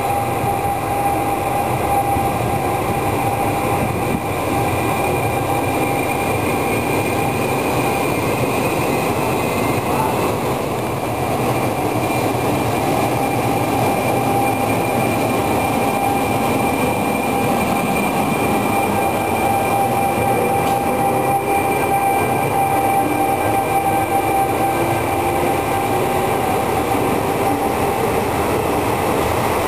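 Trenitalia E.464 electric locomotive and its double-deck coaches passing close along the platform track: continuous rolling rail noise with a steady high whine throughout, and a lower tone that slowly rises in pitch in the second half.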